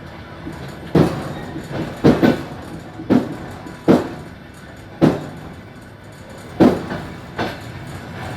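Suburban train's wheels knocking over rail joints while running, about one sharp clack a second, some in close pairs, over a steady rumble.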